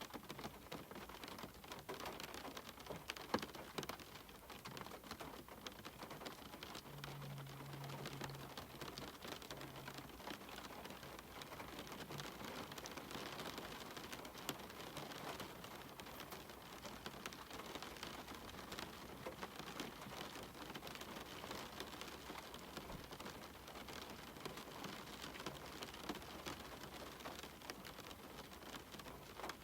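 Steady rain falling, a constant hiss of rain dotted with many separate drops ticking, with one sharper drop tap about three seconds in.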